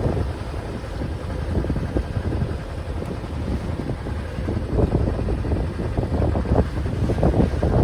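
Wind buffeting the microphone aboard a sailing yacht under way, a steady rumble with gusty rises.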